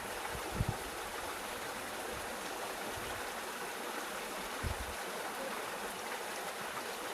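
Steady rush of flowing river water, with two soft low thumps, about half a second in and again near the end of the fifth second.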